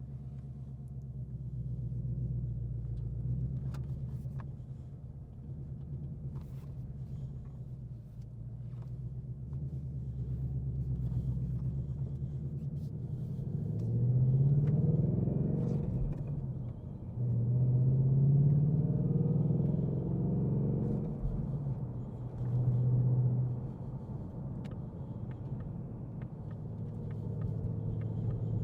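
Ford Mustang GT's 5.0-litre V8 with its active exhaust in track mode, pulling away from the driver's seat: a low steady rumble at light throttle for the first half, then two hard pulls with the pitch rising and dropping at each manual gear change, a shorter burst, and back to a steady cruise.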